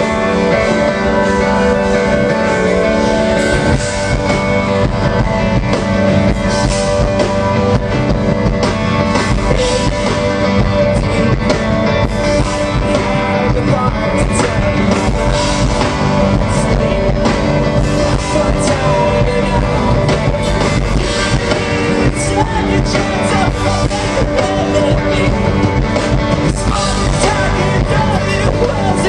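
Live rock band playing loudly with distorted guitars, a drum kit and singing.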